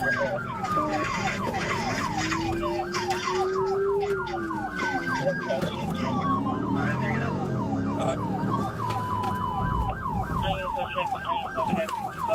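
Police car sirens during a pursuit: a fast yelp sweeping about five times a second, layered with slower rising and falling wails, over a low vehicle rumble.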